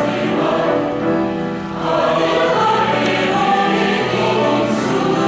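Choral music: a choir singing held chords.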